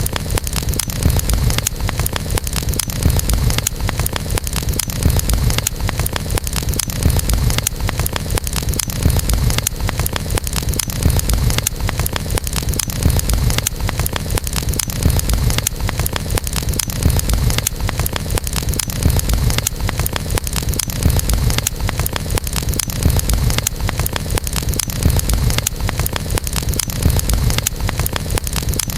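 Wood fire burning, with many small sharp crackles and pops over a steady low rumble of the flames.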